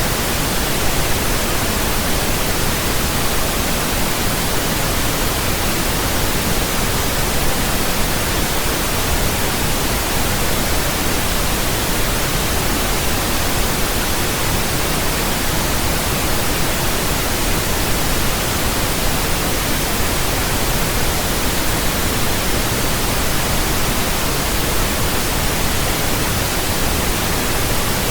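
Steady, even pink noise, a constant hiss with no changes.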